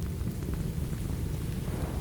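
Steady rain with a continuous low rumble of thunder, and a few faint sharp clicks scattered through it.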